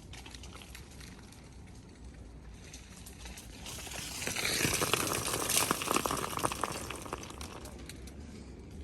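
Ice breaking off ice-coated trees and falling: a crackling, clattering cascade that swells about three and a half seconds in and fades away a few seconds later, over steady scattered ticking of ice.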